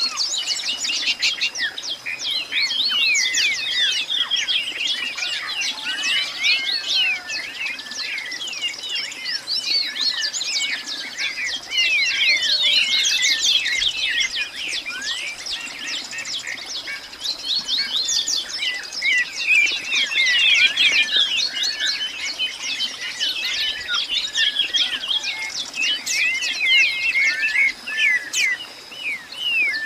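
Many birds chirping at once in a dense, continuous chorus of quick high chirps, with a faint steady high-pitched tone underneath.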